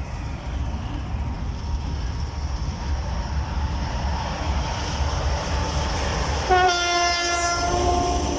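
Three-section 3TE10MK diesel locomotive hauling a freight train, its engines running with a loud, steady low rumble. About six and a half seconds in it sounds its horn in one long, steady blast that is still going at the end.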